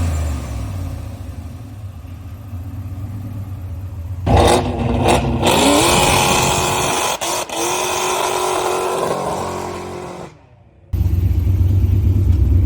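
Car engine running, rising in pitch as it accelerates about four seconds in, then settling into a steady low rumble after a brief break near the end.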